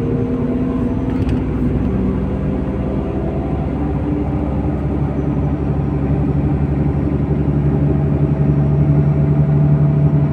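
MAZ-103 city bus under way, heard from inside the cabin: the diesel engine running with a steady road rumble. The engine note sinks a little at first, then climbs about four seconds in and holds higher as the bus pulls.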